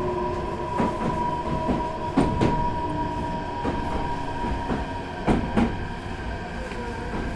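Meitetsu 4000 series electric train heard from inside, running along the track: a steady rumble with a thin whine, and the wheels clicking over rail joints in pairs. A lower tone slides down in pitch near the end.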